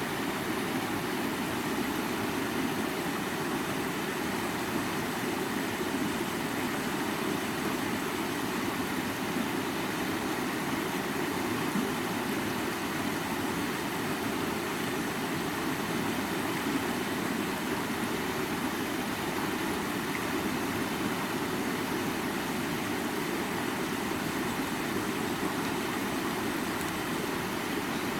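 Creek water flowing, a steady unbroken rush with most of its weight in the low-middle range.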